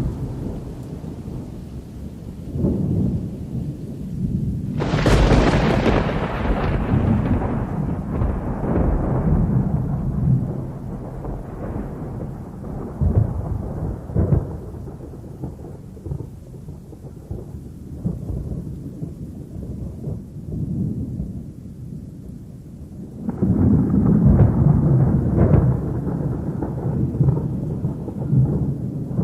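Violent sandstorm wind buffeting the microphone: a constant low rumble with a strong gust about five seconds in that slowly dies down, and another gust picking up about twenty-three seconds in.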